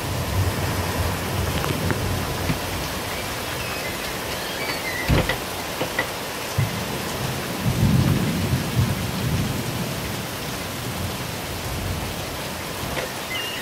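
Very heavy downpour of rain, a loud steady hiss, with low rumbling swells near the start and again past the middle. A single sharp knock about five seconds in.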